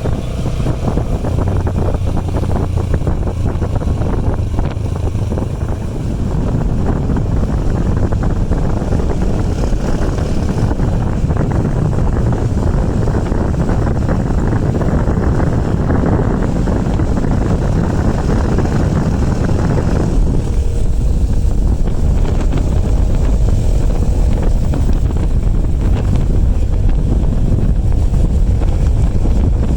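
Wind rushing over the microphone while riding a motorbike, the bike's engine running under a steady roar of wind noise that grows a little heavier about two-thirds of the way through.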